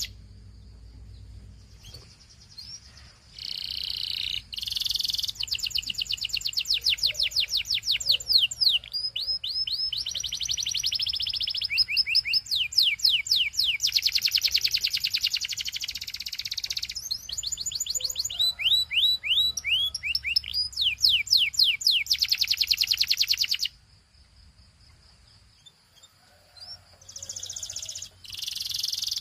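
Domestic canary singing: long runs of rapid trills, one fast-repeated note after another. There is a short lull at the start, and another of about three seconds near the end before the song resumes.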